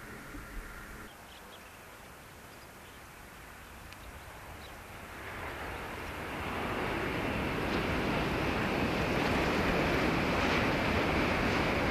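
Shinkansen bullet train approaching at speed: a rushing noise that swells from about five seconds in and stays loud.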